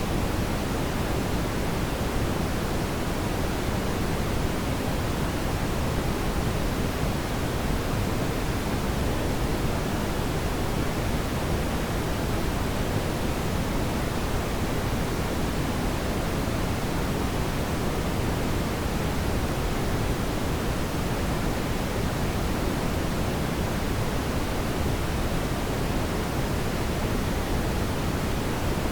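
Steady brown noise: a continuous, unchanging deep hiss with most of its weight in the low end.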